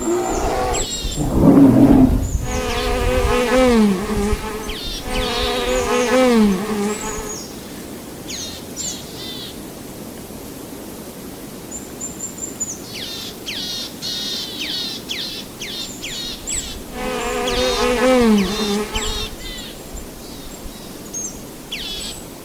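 Honey bees buzzing, their hum swelling and dipping in pitch as they fly past, twice, with birds chirping in short high notes between. A burst of low rumbling noise comes about a second or two in.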